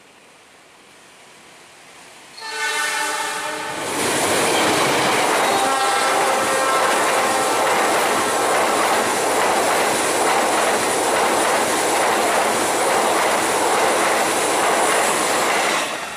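A diesel locomotive's horn blows once for about a second and a half. Then a passenger train passes close by with loud, steady wheel-and-rail noise, which cuts off abruptly near the end.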